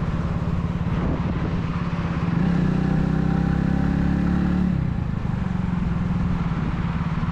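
Italika 250Z motorcycle engine running under way: about two seconds in the throttle opens and the engine note strengthens and rises a little, then drops back just before five seconds as the throttle closes.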